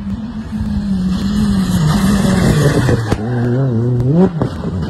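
Rally car engine running hard. Its note wavers and slowly falls, drops suddenly about three seconds in, then climbs again.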